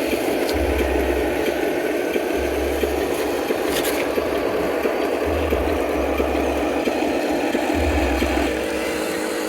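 RC model construction machines working: small electric gear motors running steadily with scraping and rattling, and a deep hum that cuts in and out every second or two.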